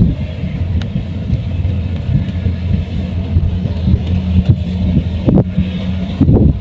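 Kubota rice combine harvester's engine running steadily at an even pitch, with a couple of brief knocks about five seconds in.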